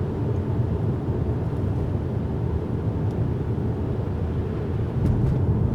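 Steady low rumble of a Mercedes A-Class heard from inside the cabin as it drives on winter tyres over a slushy road: tyre and road noise with the engine underneath.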